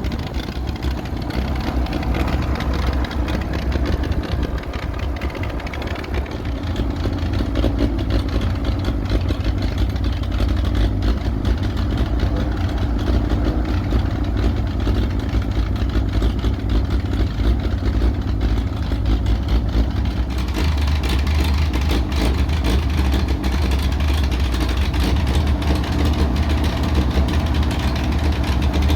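Oliver 70 tractor's six-cylinder engine running rough while the tractor is moved, a condition the owner puts down to carburetion. About twenty seconds in, the low engine note shifts and grows stronger.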